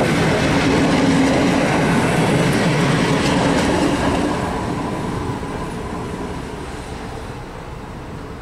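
Coaches of a regional passenger train hauled by an SM42 diesel locomotive rolling past, wheels clacking over the rail joints. The sound fades after the last coach passes, about halfway through, as the train moves away.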